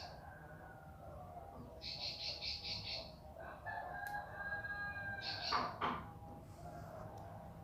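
Bar-winged prinia (ciblek) singing short, rapid trilled phrases of evenly pulsed high notes, twice. Between the phrases a rooster crows in the background.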